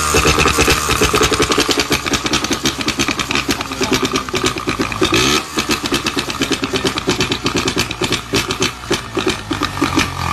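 Motorcycle engine running with rapid, uneven firing pulses. The revs dip and pick up again about halfway through.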